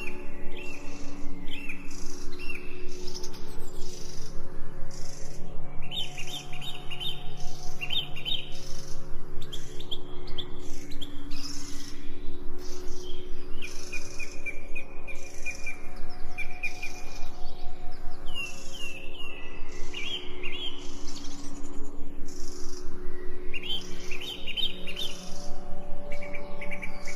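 Songbirds chirping in short, repeated series of high notes, over a soft, sustained ambient music drone.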